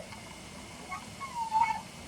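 Dog, a black Shiba Inu, whining: a short high note, then one whine about half a second long that rises and falls in pitch.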